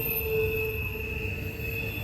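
A freight train rolling past with a low, continuous rumble. Its wheels give off steady, high-pitched squeals as the flanges rub the rails.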